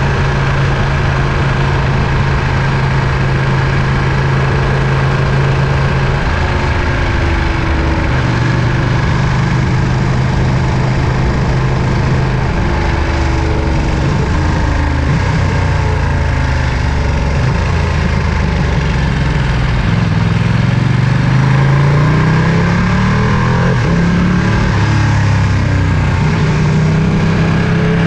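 Ducati Panigale V2's 955 cc L-twin engine and exhaust running. The pitch holds steady for about six seconds, then rises and falls, with a climb in revs around twenty seconds in.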